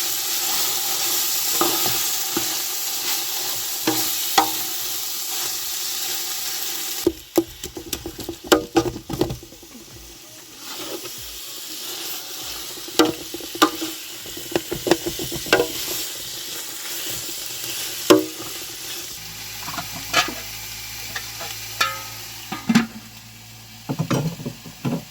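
Food sizzling as it fries in a pan, stirred with a utensil that clicks against the pan every second or two. About seven seconds in, the sizzle drops away abruptly, leaving scattered clinks and knocks of the utensil and pan.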